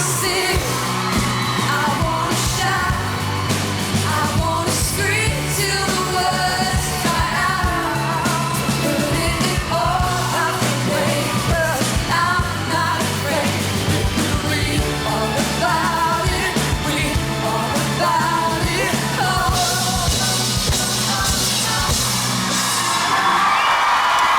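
Live pop duet, a man and a woman singing with full band backing. In the last few seconds the music gives way to an even noisy haze of crowd cheering.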